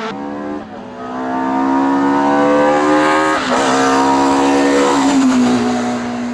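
Hillclimb race car engine at full throttle, pitch climbing through a gear, a gear change about three and a half seconds in, then the pitch falls and settles into a steady lower tone.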